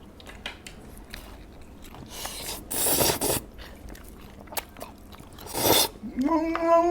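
Close-miked eating of Jollibee spaghetti: small wet mouth clicks and chewing, with two louder hissy bursts of slurping. Near the end comes a drawn-out hummed "mmm".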